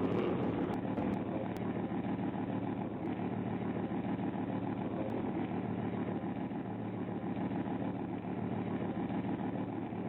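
A motor vehicle engine running steadily with an even, low hum.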